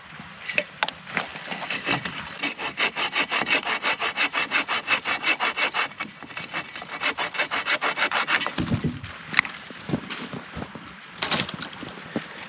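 Saw cutting through wood in quick, regular back-and-forth strokes, about five a second, with a short break about halfway through. A few separate knocks follow near the end.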